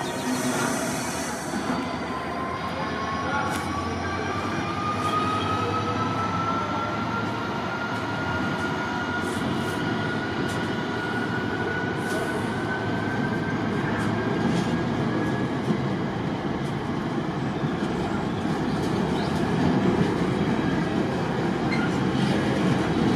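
A train running through the station, with continuous rumble and wheel noise and a thin high whine that slowly rises in pitch over much of the passage.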